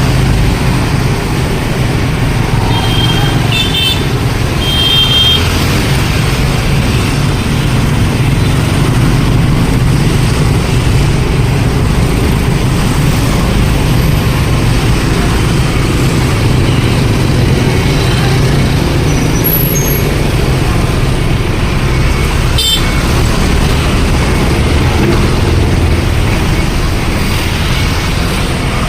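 A heavy ladder fire truck's engine runs steadily as it manoeuvres, over a street traffic rumble. A few short, high beeps come about three to five seconds in, and there is a single sharp click a little before the end.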